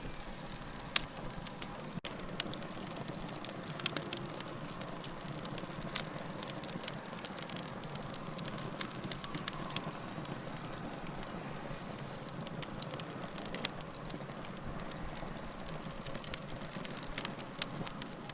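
Fire crackling: a steady low hiss with frequent sharp pops and snaps, a few louder than the rest.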